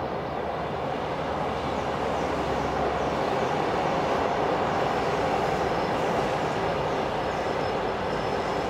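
Double-deck electric passenger train passing at speed, a steady rolling rumble of wheels on rail that swells slightly as it goes by, with a faint high whine in the second half.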